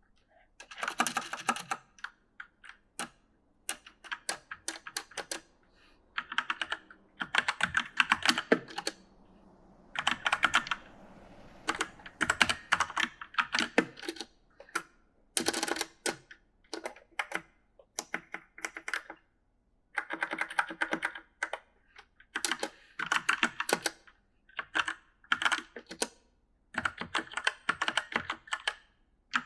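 Typing on an E-Element mechanical gaming keyboard: rapid clacking keystrokes in bursts of a second or two, broken by short pauses.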